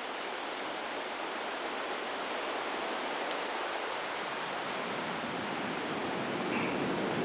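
Wind rushing through the forest trees, a steady hiss that swells a little toward the end.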